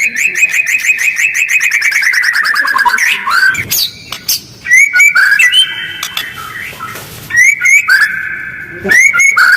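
White-rumped shama (murai batu) singing a fast, harsh song. It opens with a rapid run of notes that falls steadily in pitch for about three seconds. After a short pause come repeated bursts of short rising whistled notes with brief gaps between them.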